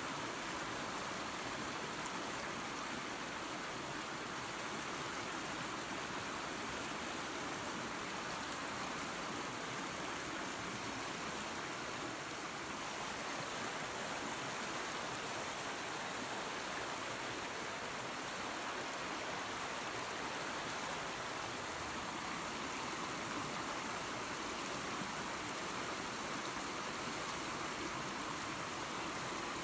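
Waterfall and creek water running steadily, a continuous even rushing with no breaks.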